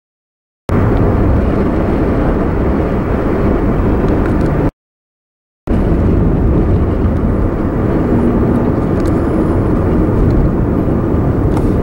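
Steady road and engine noise inside a moving car, cutting to dead silence twice for about a second, once at the very start and once about five seconds in.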